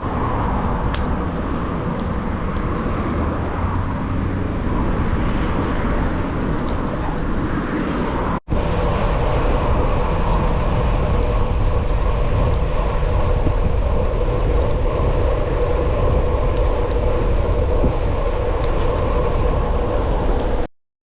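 Steady rumble and wind noise from riding a bike at speed, with a steady whine running through it. The sound breaks off for an instant about eight seconds in and stops abruptly just before the end.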